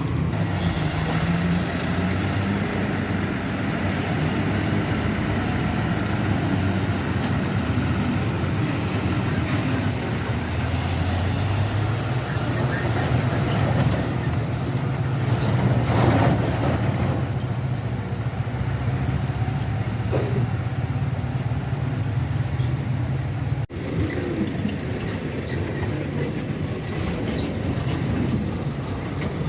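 Heavy diesel trucks running and driving past with a steady low engine hum, a brief louder burst of noise about halfway through, and an abrupt break a few seconds from the end.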